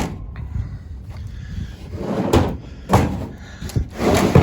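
Homemade wooden storage box being slid along a pickup truck bed, scraping, with several knocks and thuds about two, three and four seconds in.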